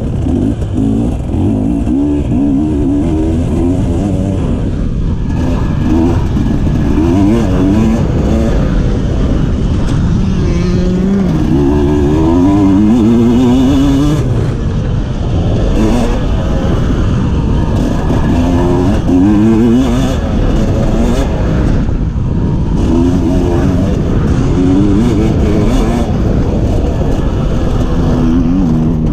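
Two-stroke enduro motorcycle engine heard from on board, revving hard with its note climbing and dropping again and again as it is ridden flat out around a motocross-style special test.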